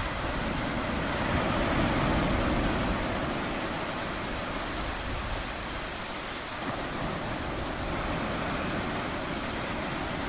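Ocean waves washing in a steady rush of surf, swelling a little a couple of seconds in.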